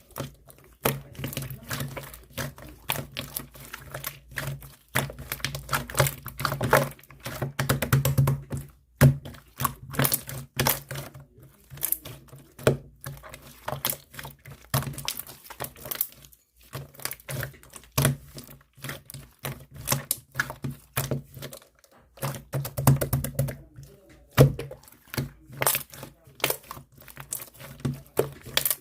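Clear pink slime being squeezed, pressed and stretched by hand, giving dense runs of sticky clicks and small air-bubble pops in bouts with short pauses.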